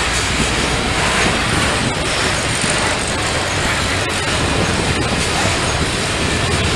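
Freight train rolling past, a steady loud rumble and rushing noise from the cars with a few faint clicks from the wheels.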